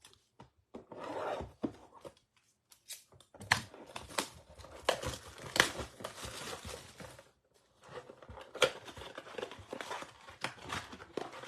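A blaster box of baseball card packs being torn open: wrapping tearing and crinkling in irregular rustles and sharp snaps, with a short pause a little past halfway.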